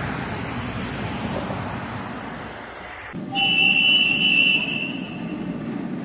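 Low rumbling outdoor rail and traffic noise, then, after an abrupt change about three seconds in, one high-pitched train horn blast lasting just over a second, the loudest sound here.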